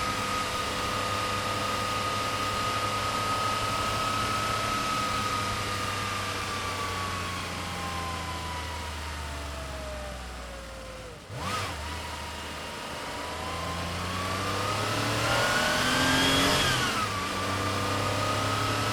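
Air-cooled 3.2-litre flat-six of a Porsche 911 running under way: a steady note sinks slowly as the revs fall, breaks off briefly with a quick blip about halfway, then climbs as it accelerates to its loudest and drops suddenly back to a steady note near the end.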